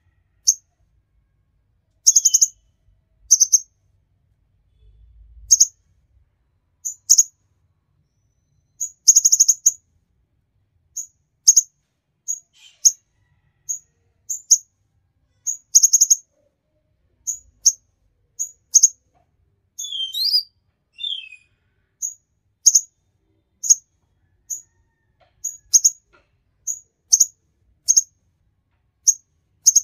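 Kolibri ninja sunbird calling: short, sharp, very high chirps repeated about once a second, some in quick clusters, with a brief lower, falling twittering phrase about twenty seconds in.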